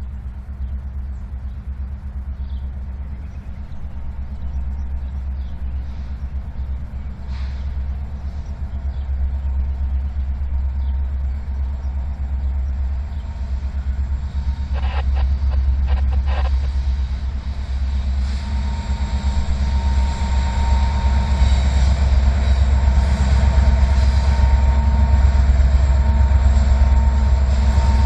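Diesel-hauled freight train approaching: a steady low locomotive rumble growing louder, a brief clatter about halfway through, then a thin steady wheel squeal from the rails setting in and strengthening.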